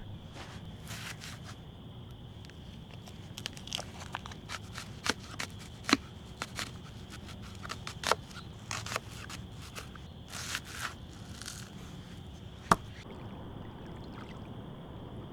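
Something being handled: scattered sharp clicks, taps and short scrapes, the loudest about six, eight and near thirteen seconds in, over a steady faint high hum.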